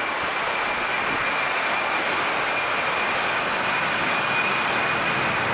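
Boeing 767 freighter's jet engines at takeoff power, a steady rushing roar with a thin high whine, growing slightly louder.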